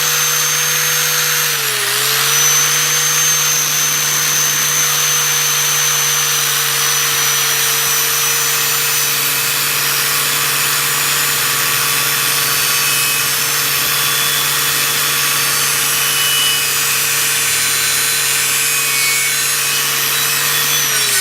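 Electric grinder running with its wheel pressed against the steel machete blade, abrading and polishing off rust: a steady motor whine under a harsh grinding hiss. The motor sags briefly about two seconds in under pressure, and it is switched off and starts winding down at the very end.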